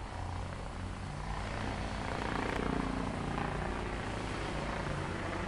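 A steady low mechanical drone, like an engine running, swelling slightly a couple of seconds in.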